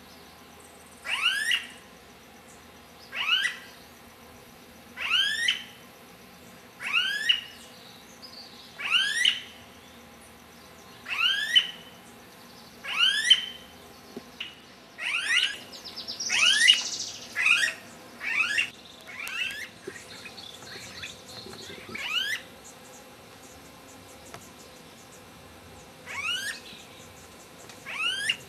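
A bird calling over and over: a short, squeaky, upward-sweeping whistle about every two seconds, crowding into a quicker run of calls about halfway through, then thinning to a few spaced calls near the end.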